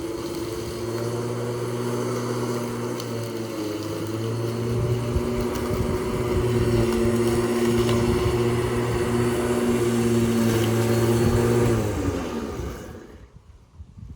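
Petrol lawn mower engine running steadily. About twelve seconds in it is shut off, its pitch dropping as it winds down to a stop.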